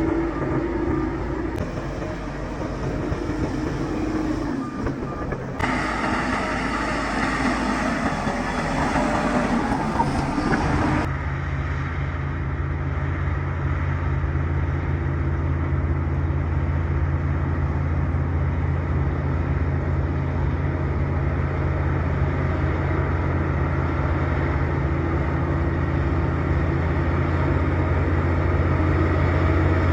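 Bulldozer's diesel engine running, with abrupt changes in the sound at a few cuts in the first third. After that it settles into a steady, deep engine drone.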